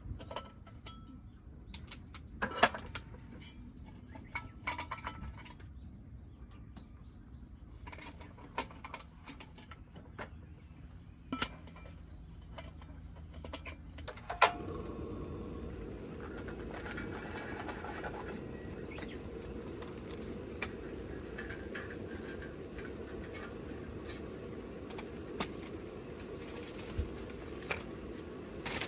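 Hands handling fast-food packaging, with rustling and scattered light clicks and taps. About halfway through, a steady low hiss of background noise sets in under the handling sounds.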